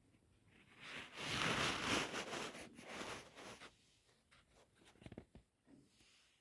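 Slate pencil being bitten and chewed: a dense dry crunching for about three seconds, then a few sharper single crunches near the end.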